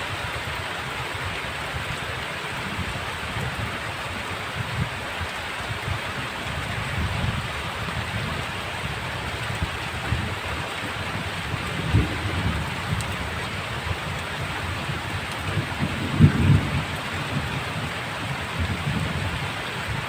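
Heavy rain falling in a steady hiss, with low rumbles of thunder underneath that swell most strongly about twelve seconds and sixteen seconds in.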